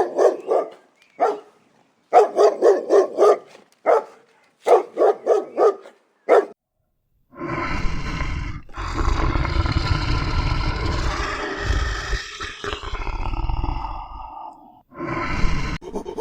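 A dog barking in quick runs of several barks each for about six seconds, then, after a short pause, a long, deep animal call lasting about seven seconds that falls in pitch as it ends.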